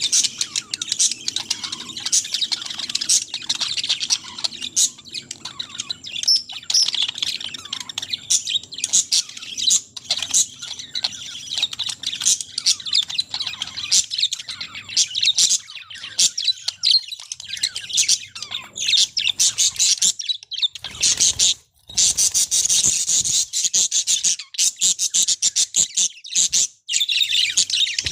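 A flock of budgerigars chirping and chattering in a dense, continuous chorus of short, high chirps.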